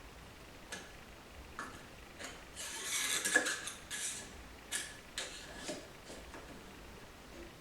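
Metal parts of a Ford 5R55S transmission clicking and clattering as they are handled and fitted together by hand: separate clicks, with a dense burst of rattling about three seconds in.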